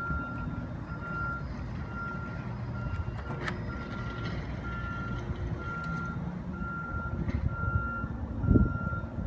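An electronic beeper sounding a steady high beep that repeats a little under once a second, over a continuous low rumble.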